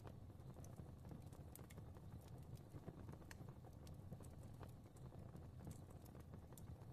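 Soft fireplace crackling: a faint, steady low rumble of flames with scattered small pops and crackles.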